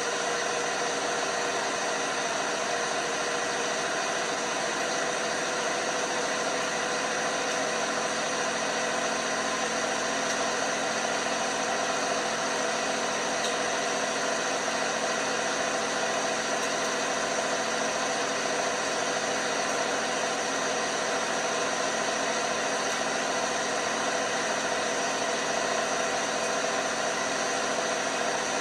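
LG washing machine running: a constant machine hum with several steady whining tones over a hiss, unchanging throughout.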